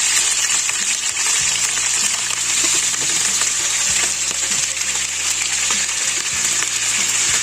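Marinated chicken legs frying in hot oil in a pan: a steady sizzling hiss with fine crackling spatter.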